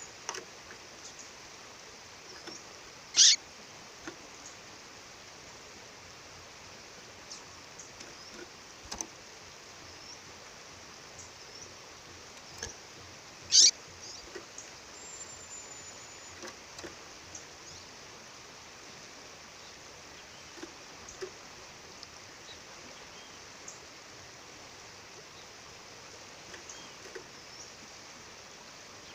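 A female bird giving two loud, sharp chirps about ten seconds apart, with a few faint chirps and a brief thin high whistle in between, over the steady rush of a waterfall.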